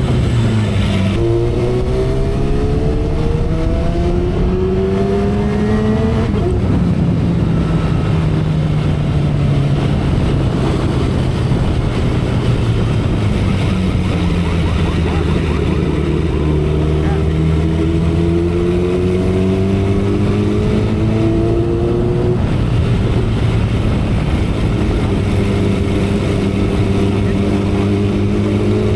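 2012 Kawasaki Ninja ZX-10R's inline-four engine pulling hard under way. The engine note climbs steadily, drops sharply at each upshift (about a second in, around six seconds and past twenty seconds) and climbs again. Wind rushes over the microphone throughout.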